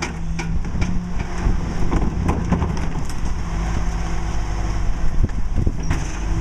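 Mack LE rear-load garbage truck running steadily, with a stream of cracks and knocks from refuse being crushed in its McNeilus packer.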